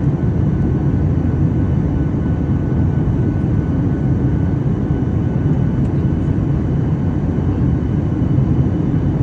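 Steady low roar of an airliner's engines and airflow heard from inside the passenger cabin during the approach to landing, with a faint steady whine above it.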